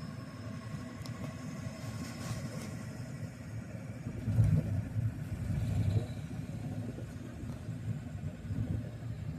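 Vehicle driving, a steady low rumble of engine and road noise that swells louder for about two seconds a little past four seconds in.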